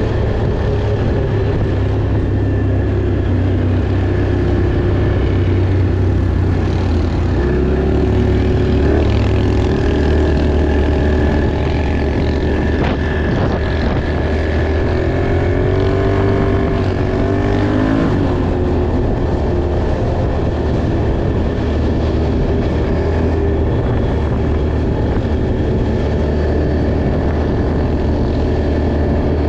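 ATV engine running under way. Its pitch rises and falls with the throttle in the middle part, then settles back to a steady drone.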